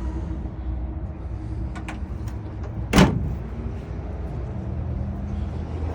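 One loud metallic slam about three seconds in, a pickup tailgate being shut, over a steady low rumble.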